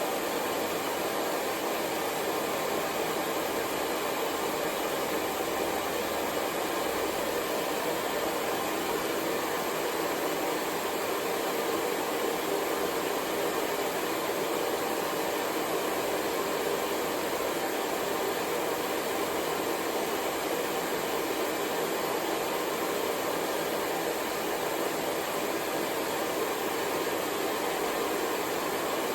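Hair dryer blowing continuously: a steady, unchanging rush of air noise, strongest in the low middle, used as white noise.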